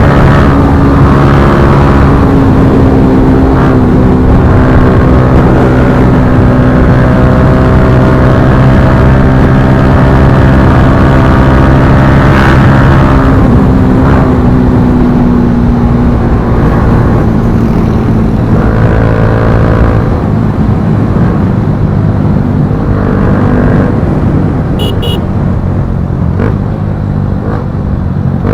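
Motorcycle single-cylinder engine through an Akrapovic slip-on exhaust, on a Bajaj Pulsar NS160, riding at steady revs for the first half. The revs then drop and the throttle comes on and off in short bursts.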